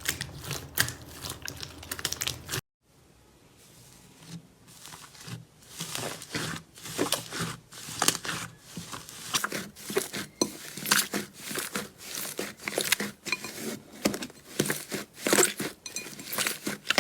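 Slime being squeezed and poked, with many sharp crackles and pops. The sound cuts off about three seconds in, stays faint for a couple of seconds, then dense crackling picks up again.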